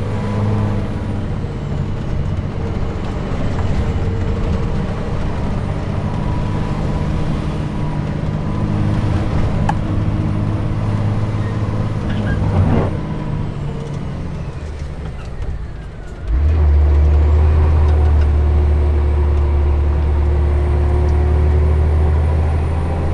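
Scania R420 truck's diesel engine running steadily under load. About two-thirds of the way through it drops away briefly, then returns suddenly with a louder, deeper drone that holds to the end.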